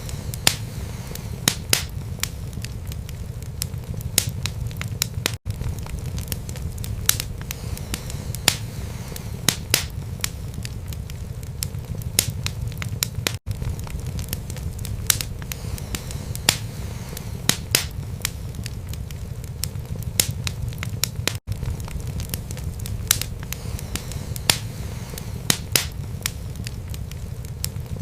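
Wood fire burning in a fireplace: a steady low rumble of flames with frequent, irregular sharp crackles and pops from the burning wood. A very brief dropout about every eight seconds marks where the recording loops.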